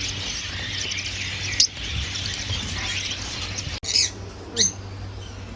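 Many caged small birds chattering and chirping together in a dense high twitter, with a couple of short, sharp squawks near the end.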